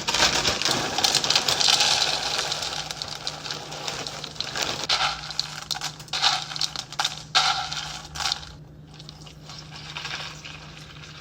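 Dry Cap'n Crunch's Crunch Berries cereal poured into a bowl: a dense rattle of pieces for the first few seconds, then scattered clicks of single pieces that die away about eight seconds in. A faint low hum runs underneath.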